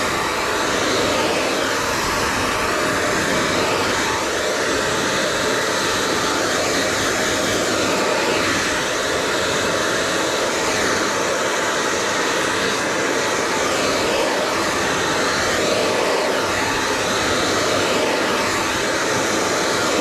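Hair dryer blowing steadily, a constant airy rush drying long hair. Faint brushing and combing of the hair may sit under it.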